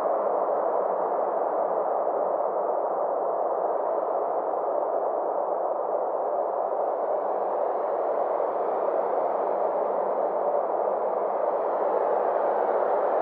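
Synthesized space-ambience drone: a steady band of hushed noise in the middle range, its brightness slowly rising and falling over several seconds.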